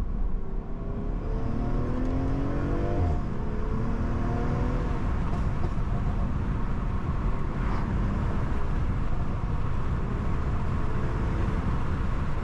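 BMW M340i's turbocharged B58 inline-six accelerating, heard from inside the cabin over road noise. The engine note rises for about two seconds, drops at an upshift about three seconds in, rises again, then settles into steady running.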